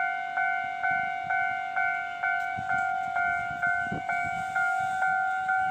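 Japanese railway level-crossing alarm ringing without stopping, a two-tone electronic ding repeated about twice a second. The crossing is held closed with the barriers down while trams wait.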